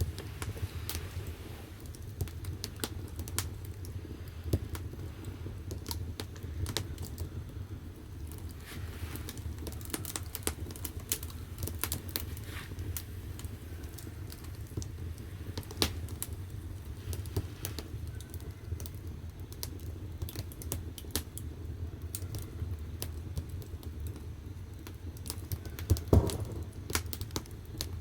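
Firewood burning in the firebox of a wood-fired bath, crackling with frequent sharp pops over a steady low rumble of the fire, with a louder burst of pops near the end.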